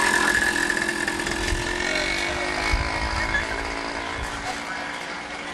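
Racing motorcycle engine running hard on track, its note shifting in pitch and gradually getting quieter as it moves away.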